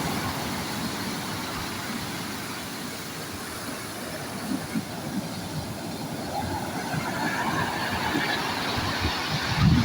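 Sea waves washing onto the shore, a steady surf rush with low rumbling surges and a heavier thump near the end.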